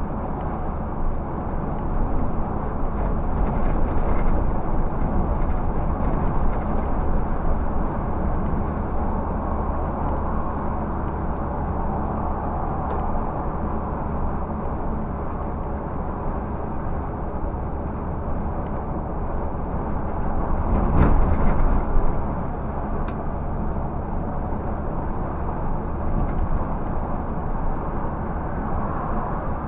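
Scania 360 truck's diesel engine running steadily with road noise while driving, and one brief louder swell about two-thirds of the way through.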